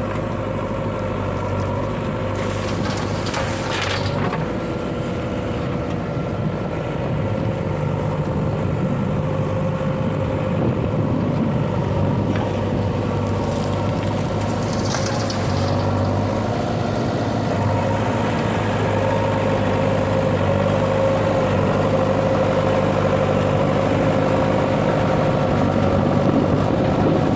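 Diesel engine of a JCB 3DX backhoe loader running steadily under work while loading sand and stone, getting a little louder over the last half. Two short noisy bursts about 3 and 15 seconds in.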